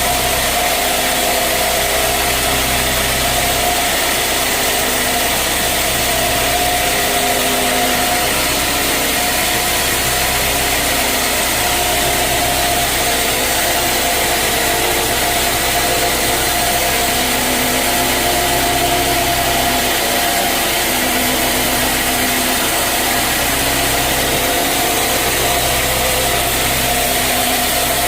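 Sawmill machinery running steadily: a constant loud mechanical drone with a fixed mid-pitched whine and a low hum that shifts slightly every few seconds.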